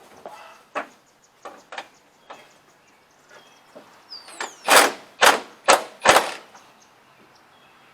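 Milwaukee cordless impact wrench fired in four short bursts about half a second apart, a little past the middle, hammering on a crane mounting bolt. Lighter knocks and clicks of tools being handled come before it.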